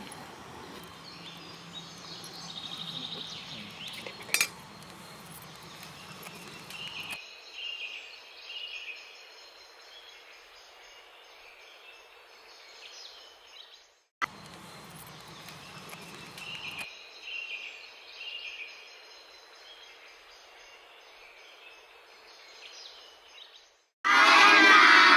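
Outdoor background noise with scattered short bird chirps and a single sharp clink about four seconds in. Loud music comes in suddenly near the end.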